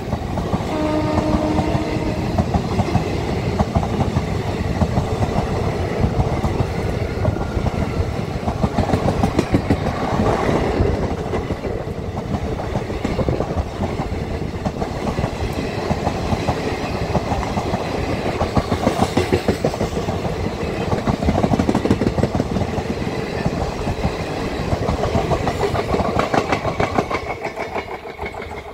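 Coaches of a long Indian Railways passenger train rolling past close by, a steady heavy rumble with a rapid clatter of wheels over the rail joints. It fades in the last couple of seconds as the last coach draws away.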